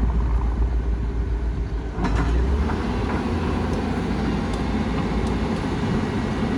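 Doosan excavator's diesel engine running steadily. Its sound shifts about two seconds in, and a few faint clicks follow.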